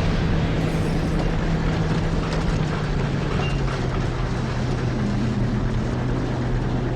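Car engine and road noise while driving, the engine note sinking slowly and steadily.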